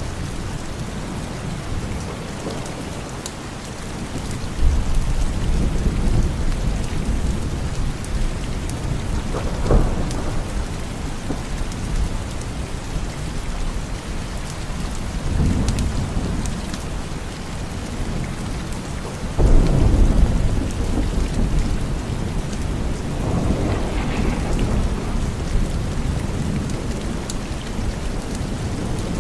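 Steady heavy rainfall with rolling thunder rumbling several times, the loudest roll breaking in abruptly about two-thirds of the way through.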